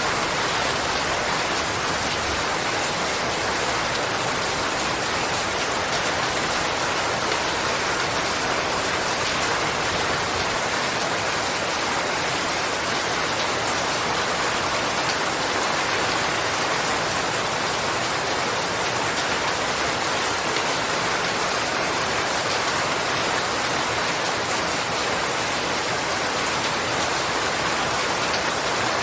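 Steady rain falling, a dense, even hiss with no separate drops or changes standing out.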